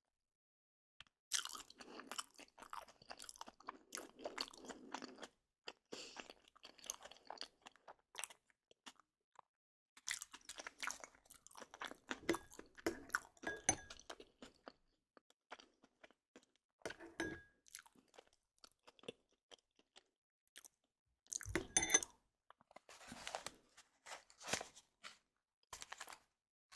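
Close crunching and chewing of something crisp, in irregular bursts of crackly clicks separated by short silent gaps, the loudest burst about 22 seconds in.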